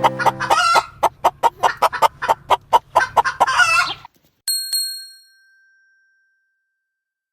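Hen clucking rapidly, about four clucks a second, with background music fading under it in the first second. The clucking cuts off abruptly about four seconds in, and a single bell-like chime rings out and dies away.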